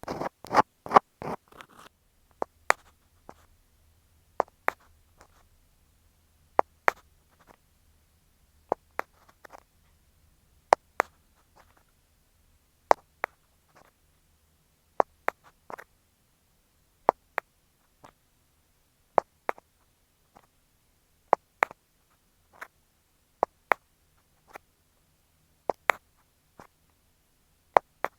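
Ear-cleaning tools worked against an earphone microphone: a second or two of rapid metal scratching from a scaler, then an ear pick giving sharp clicks, mostly in pairs, about every two seconds.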